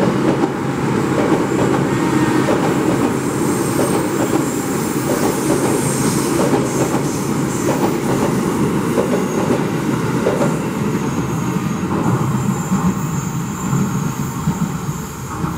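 KRL electric commuter train passing close by, a steady rumble of wheels on rail with repeated clacking over the rail joints. High thin wheel squeals come and go on the curved track.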